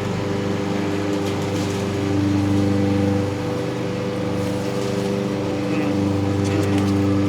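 Steady machine hum with a low pitched drone and several overtones, shifting slightly in pitch twice, with a few faint clicks.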